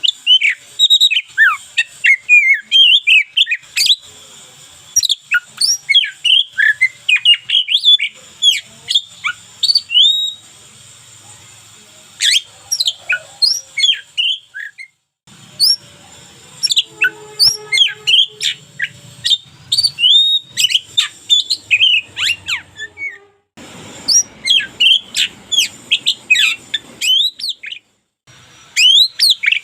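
Oriental magpie-robin (kacer) singing loudly: a rapid, varied run of sharp chirps and whistled up-and-down glides, in phrases broken by short pauses.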